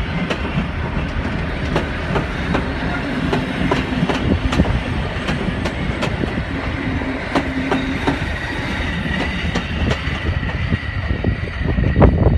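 Train rolling along the track, its wheels clicking over rail joints, with a steady rumble and a faint high steady tone.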